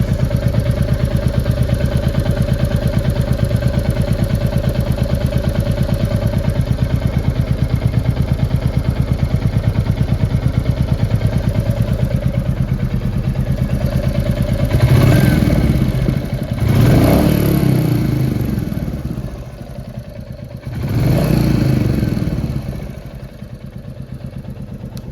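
Royal Enfield Classic 350 Reborn's single-cylinder engine idling with a steady ticking beat, then revved briefly three times in the second half. The uploader presents the ticking as tappet noise, the 'tik tik' tappet issue.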